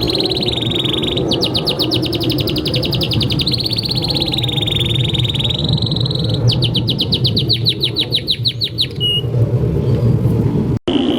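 Domestic canary singing a long unbroken song. Held high whistled notes alternate with two runs of very fast trills, over a steady low background noise. The song cuts out for an instant near the end.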